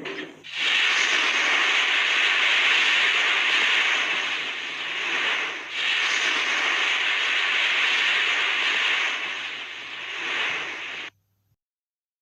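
A loud, steady rushing hiss in two long stretches, with a brief dip between them, that cuts off suddenly near the end.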